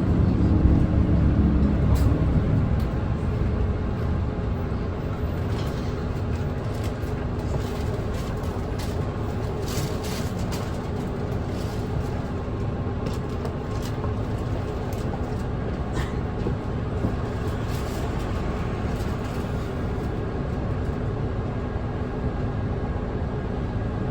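Nissan Diesel Space Runner RA city bus heard from inside the cabin while under way. The diesel engine's note starts loud and falls in pitch over the first few seconds as the engine eases off. It then settles into a steadier, quieter drone under road noise, with a few light rattles.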